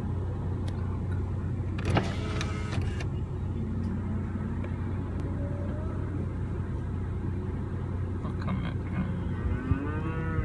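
Vehicle engine idling with a steady low hum, heard from inside the cab, while cattle low briefly near the end.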